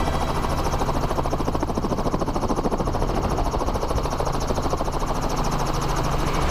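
Helicopter running, with the rapid, steady chop of its rotor blades.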